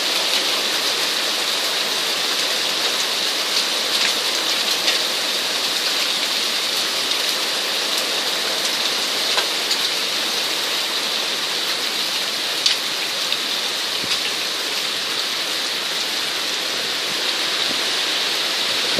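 Heavy rain and hail pouring down steadily, with a few sharp ticks of hailstones striking scattered through it.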